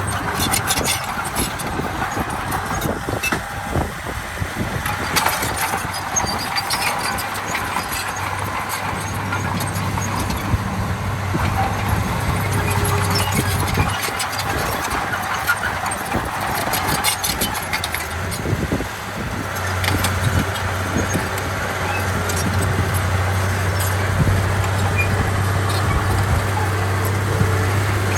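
Heavy diesel earthmoving machinery running steadily, its engine drone growing stronger partway through and again in the last third, with scattered sharp metallic clicks and clanks.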